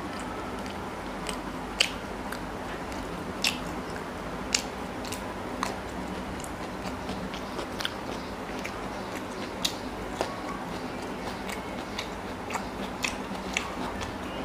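A person chewing and biting close to the microphone, eating porota with chicken curry and raw salad, with scattered sharp crunchy clicks at irregular intervals over a steady low hum.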